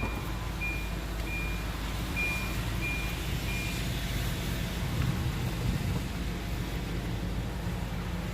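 Nissan Armada warning chime beeping about six times, a little under twice a second, while the power third-row seat moves, over a steady low rumble.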